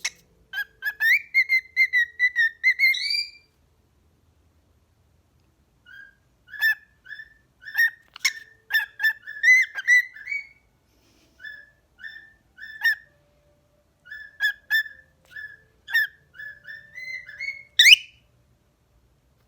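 Cockatiel whistling a tune in short, clear notes: a quick run, a pause of about three seconds, then more phrases of short notes ending on a rising note.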